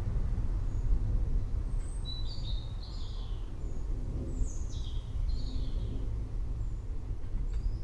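Low, continuous rumble of distant rolling thunder, with a few short bird chirps about two and five seconds in.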